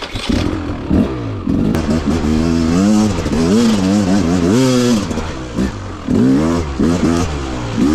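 Beta RR300 two-stroke single-cylinder enduro engine revving up and down in repeated throttle bursts as the bike is ridden. The engine is freshly rebuilt and being run in.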